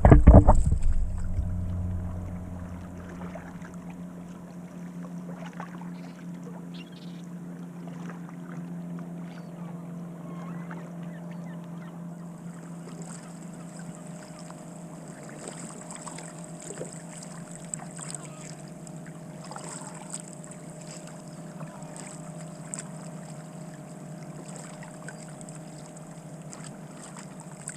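Kayak moving over calm water: faint paddle splashes and drips over a steady low hum. A loud thump comes right at the start and fades over a couple of seconds.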